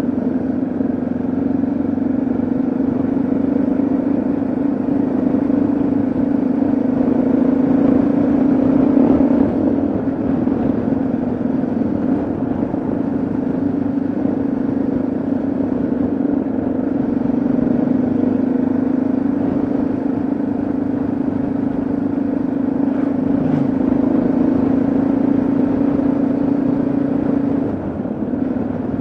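Yamaha XT660Z Ténéré's single-cylinder engine running at a steady cruise over a haze of wind and road noise. The note rises a little about a third of the way in and eases off near the end.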